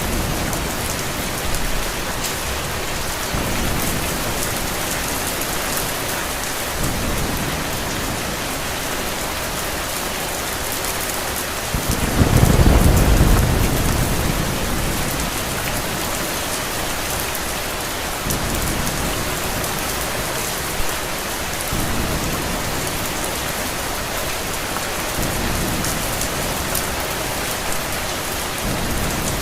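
Steady heavy rain, with a low roll of thunder swelling about twelve seconds in and dying away over a few seconds.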